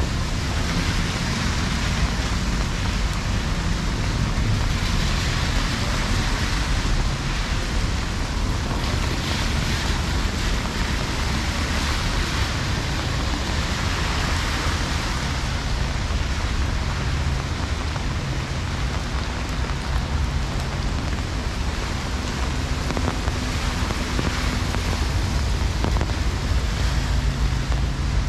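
Heavy rain falling steadily on a city street and pavement, with a steady low rumble underneath.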